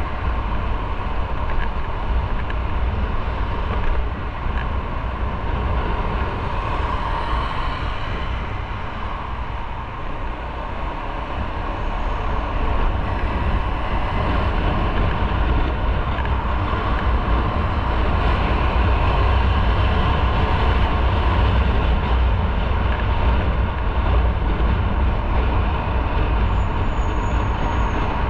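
Motorcycle on the move: engine noise mixed with heavy wind rumble on the onboard microphone. It eases off a little about ten seconds in, then builds again.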